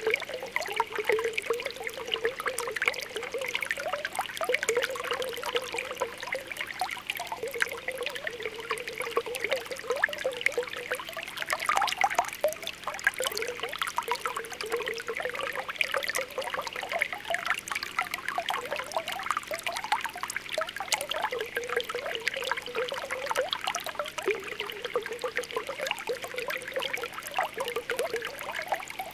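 Spring water welling up from the ground, bubbling and popping continuously with many small gurgling plops over a steady trickle.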